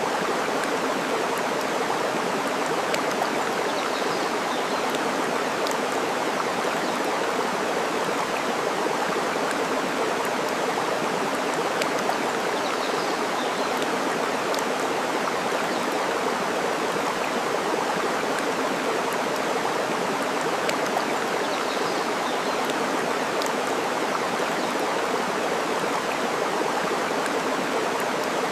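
Steady rushing of flowing water, like a stream, with faint scattered crackles from a burning wood fire.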